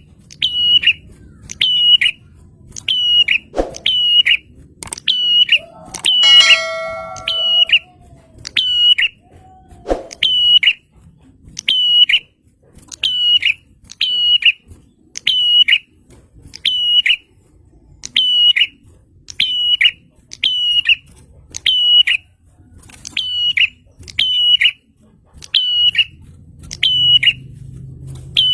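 A prinia (prenjak) calling over and over: a short, sharp, high note about once a second, without a break. About six seconds in, a different, lower call with several tones cuts in briefly.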